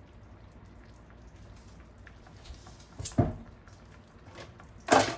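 Quiet kitchen room tone, then two short clattering knocks of cookware, about three seconds and about five seconds in.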